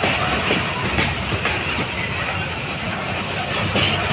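Freight train of empty coal wagons rolling past close by: a steady rumble with repeated clickety-clack of wheels over rail joints.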